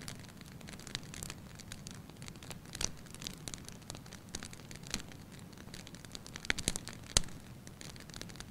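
Wood fire crackling in a fireplace: irregular sharp pops and snaps over a low steady rumble, with the loudest pops coming about six and a half to seven seconds in.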